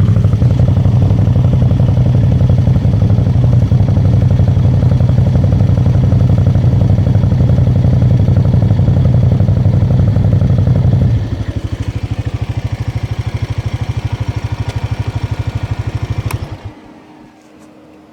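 Quad (ATV) engine running steadily under throttle, dropping to a quieter, evenly pulsing idle about eleven seconds in, then cutting off abruptly near the end as the engine is shut off.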